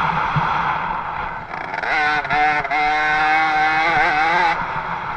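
50cc two-stroke motocross bike engine at high revs: a rough engine noise at first, then from about two seconds in a steady high engine note held for a couple of seconds, wavering briefly before it cuts off suddenly.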